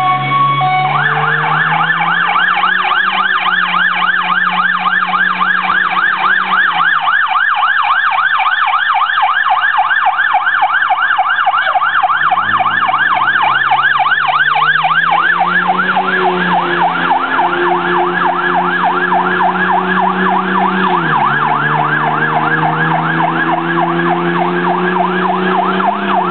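Fire engine siren in a rapid yelp, its pitch sweeping up and down without a break. Beneath it a lower, steadier tone winds down and back up twice.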